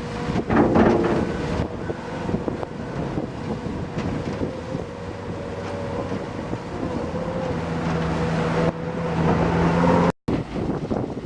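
Material screening machine running, a steady mechanical clatter with a hum over it. The noise breaks off for an instant near the end.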